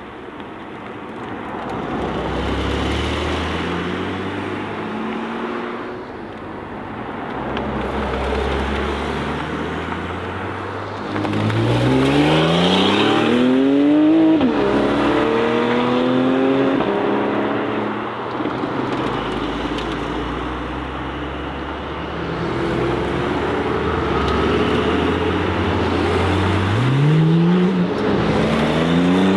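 Several high-performance sports car engines accelerating hard, one after another, revving up steeply through the gears with sudden upshifts. The loudest pull climbs for a few seconds around the middle, and another starts near the end.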